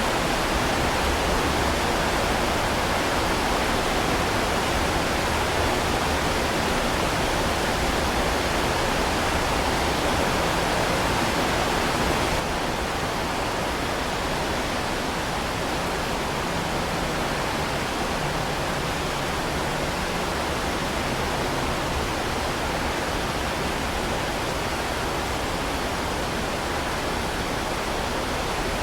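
Heavy rain falling as a steady, dense hiss. About twelve seconds in it drops a little in level and loses some of its brightest top end.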